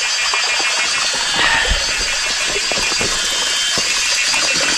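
Spring water trickling over rocks and into a container as a steady hiss, with a few short knocks from the container being handled.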